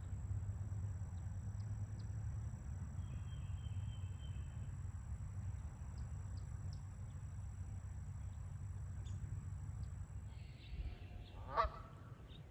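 A Canada goose honks once near the end, over a steady low rumble.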